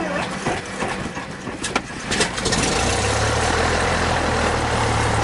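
Cessna 120's piston engine being started: uneven sputtering with a few sharp pops for about three seconds, then it catches and settles into a steady idle.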